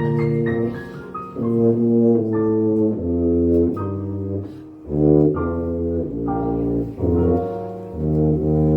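Tuba playing live, a tune of separate held notes over low bass notes.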